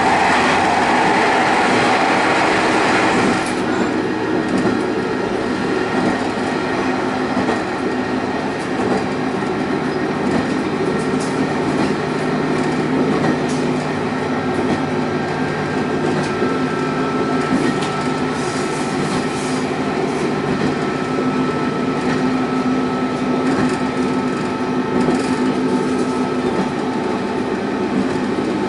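Diesel railcar running along the line, its engine and wheels on the rails making a steady rumble. For the first three and a half seconds the noise is louder and harsher as the train runs through a tunnel, then it drops suddenly as the train comes out into the open.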